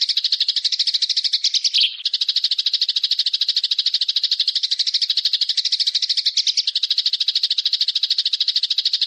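A bird's rapid chattering call: high, evenly repeated notes at about ten a second, broken only briefly about two seconds in.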